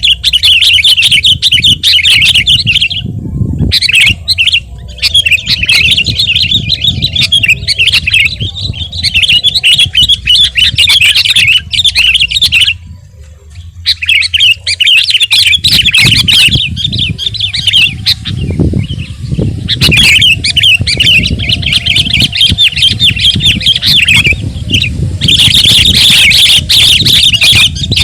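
Sooty-headed bulbul (kutilang) singing loudly in long bouts of rapid chattering notes, breaking off briefly about three seconds in and again about halfway through. A low rumble runs underneath.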